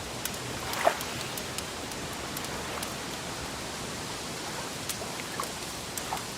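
Wood fire crackling: a steady hiss with scattered sharp pops and snaps, the loudest pop about a second in.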